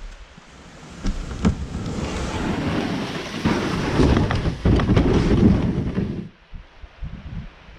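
Wind buffeting the microphone in strong gusts, with a few sharp knocks, dropping away suddenly about six seconds in.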